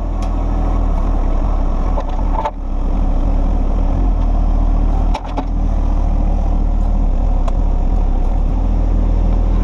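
John Deere 1025R compact tractor's three-cylinder diesel engine running steadily, with brief knocks about two and a half and five seconds in.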